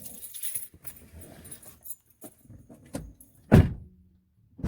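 Scattered rustling and clicks of handling, then one loud thump about three and a half seconds in, followed by a faint steady hum.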